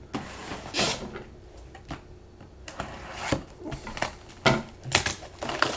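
Trading cards and their packaging being handled at close range: scattered rustles, light taps and rubbing.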